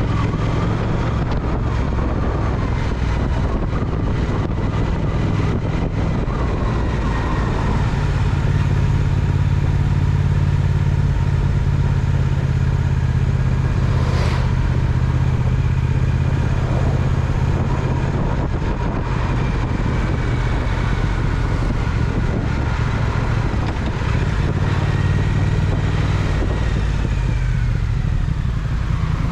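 Triumph Speed Twin parallel-twin engine running steadily under way, with road and wind noise. The engine note shifts a little about a quarter of the way in, and there is one short sharp click or knock about halfway through.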